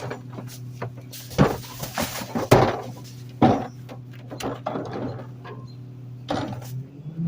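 Garbage truck idling with a steady hum while trash bags and cans are tossed into the rear hopper, giving a string of knocks and thuds. Right at the end the engine revs up to a higher, steady pitch.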